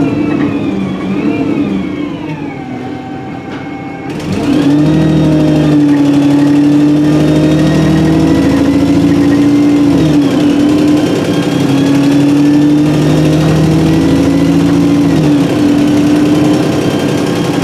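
Alexander Dennis Enviro300 bus on an ADL E30D chassis with a Voith 4-speed automatic gearbox and a blown exhaust, heard from on board: the engine falls in pitch and runs quieter, then about four seconds in it gets louder and pulls away, holding a steady pitch with two brief dips as the gearbox shifts up.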